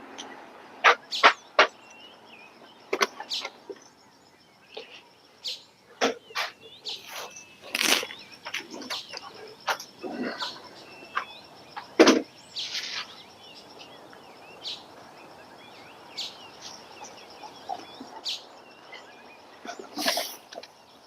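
Outdoor yard sounds: free-ranging chickens, with small birds chirping, broken by frequent short, sharp knocks and rustles, the strongest about a second in, around twelve seconds in and near the end.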